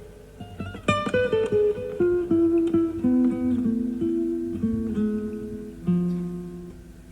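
Classical guitar playing a melodic line of single plucked notes, with a chord strummed about a second in and the last note dying away near the end. The sound comes off a cassette recording of an FM radio broadcast.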